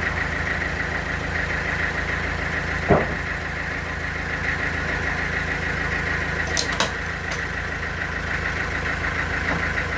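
Sawmill machinery running steadily with a constant hum and whine. A single knock comes about three seconds in, and a few sharp clicks follow near seven seconds.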